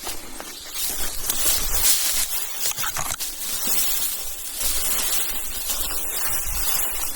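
A hiker's footsteps and body brushing through leaf litter and undergrowth on a rough trail: a continuous rustling with scattered small clicks and snaps.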